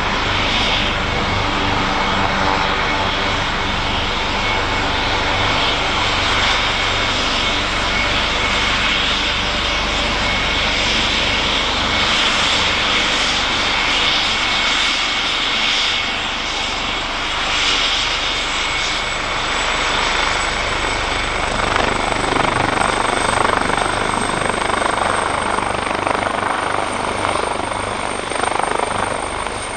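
AgustaWestland AW139 helicopter running, its two Pratt & Whitney Canada PT6C turboshaft engines whining over the beat of the five-bladed rotor. About two-thirds of the way through, a high turbine whine slowly rises in pitch and a rushing rotor noise grows.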